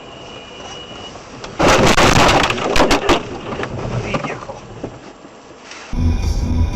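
Sudden loud crash of a vehicle collision heard from inside a car, a crunching impact with several sharp knocks, fading over a couple of seconds. Near the end it gives way to music with a steady beat.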